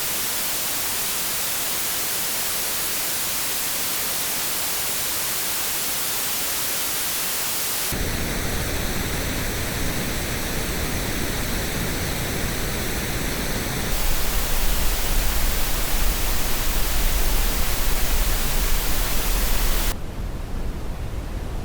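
Generated colour-noise samples: a steady, even hiss that switches abruptly about every six seconds to a version with more bass. The last section near the end has much less treble, giving a deeper rush.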